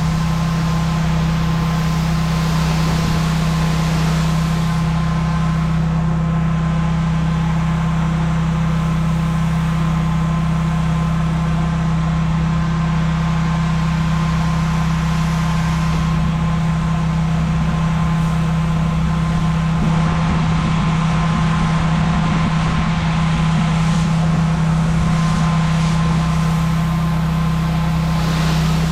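Pressure washer engine running steadily at a constant speed, with the spray of high-pressure water on concrete.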